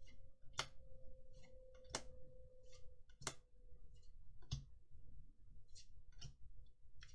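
Faint sharp clicks of trading cards being handled, about one every second and a quarter as cards are snapped or flicked over one by one, with faint brief rustles between them over a low steady hum.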